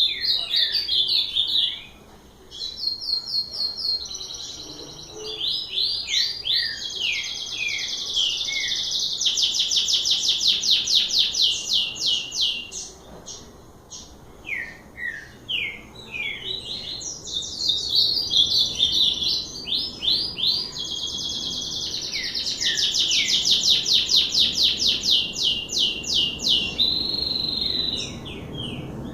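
A songbird singing a long, varied song: fast trills of rapidly repeated notes alternate with downward-sliding whistled notes. It sings almost without a break, with short gaps between phrases.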